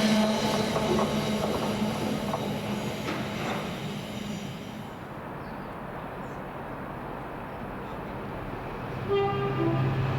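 A passing train fades away over the first few seconds, leaving a quieter stretch. About nine seconds in, another train's sound starts suddenly, with several steady tones.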